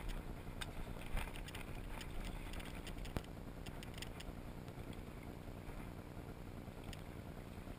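Water and wind noise around a fishing kayak: a steady low rumble with light splashing, broken by a few sharp clicks and knocks in the first half.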